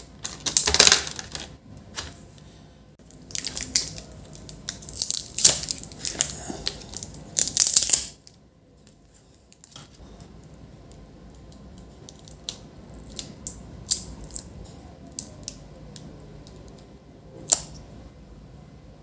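Packaging rustling and tearing in loud bursts for about eight seconds, likely the wrapping of the battery kit's screwdrivers being opened. This is followed by scattered small clicks and taps of tools and laptop parts being handled, with one sharper click near the end.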